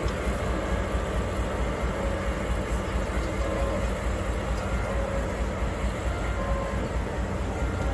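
DE10 diesel-hydraulic locomotive engine running with a steady low rumble.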